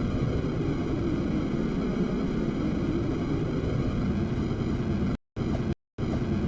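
Icelandair Boeing 757's jet engines, a loud steady rumble and rush of noise with faint steady whining tones above it. The sound drops out to silence twice, briefly, a little after five seconds in.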